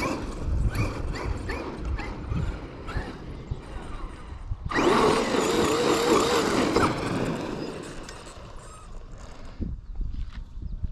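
Electric RC monster truck's brushless motor whining in short rising bursts as the throttle is blipped, with tyre and dirt noise; about five seconds in it goes loud for around two seconds with a wavering whine as the truck drives hard, then fades.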